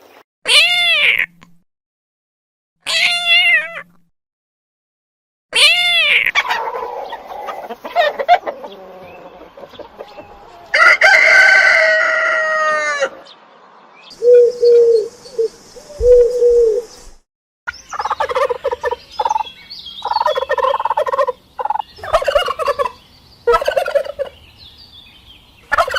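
Poultry calling: a rooster crowing, and in the last third turkeys gobbling in rapid bursts.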